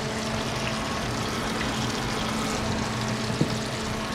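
Fish frying in hot oil, a steady sizzle over a steady low hum, with a single light click about three and a half seconds in.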